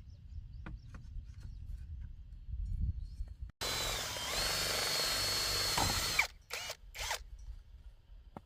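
Power drill running at full speed for about two and a half seconds with a steady high whine, then three quick short bursts of the trigger.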